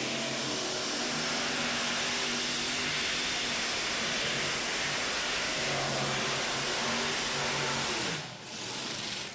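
Pulling vehicle's engine running hard, a loud steady rushing roar with low engine tones beneath, dipping briefly near the end.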